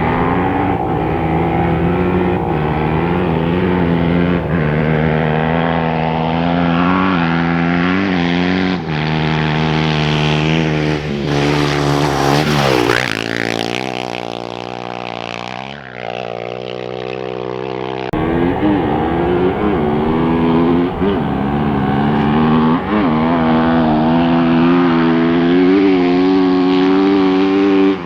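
Off-road race motorcycle engines running loudly with short quick revs. About halfway through, a vehicle speeds past and its pitch sweeps down, then the steady engine drone returns abruptly.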